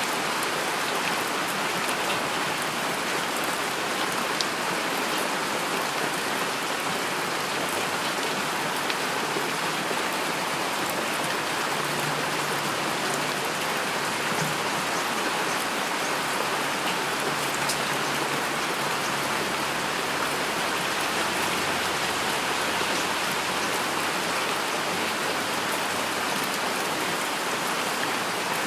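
Steady rain falling: an even, unbroken hiss with scattered single drops ticking through it.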